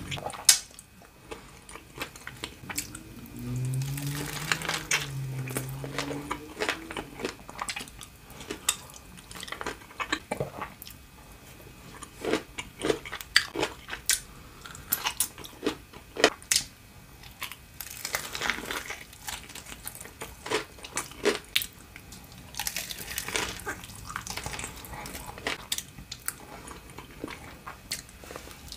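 Close-miked eating of deep-fried salmon sushi rolls: crunchy bites into the fried crust and wet chewing with many small mouth clicks. A short hummed voice sound comes around four to six seconds in.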